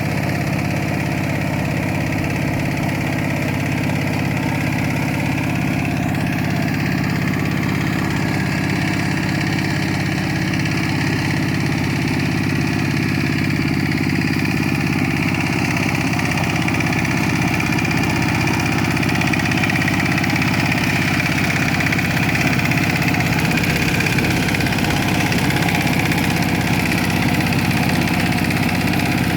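Kubota K700 tractor engine running steadily at an even speed.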